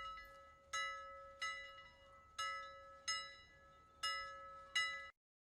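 A faint, slow chime tune of struck bell-like notes, about one every three-quarters of a second, each ringing briefly and fading. It stops about five seconds in.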